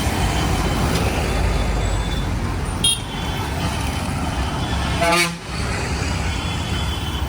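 Steady vehicle rumble, with a brief high toot about three seconds in and a louder, rising horn-like toot about five seconds in.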